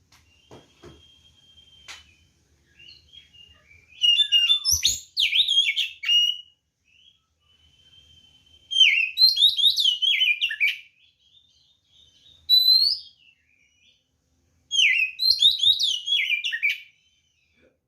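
Oriental magpie-robin (kacer) giving its loud fighting song: bursts of quick, varied whistled phrases one to two seconds long, four times, with faint thin whistles in between.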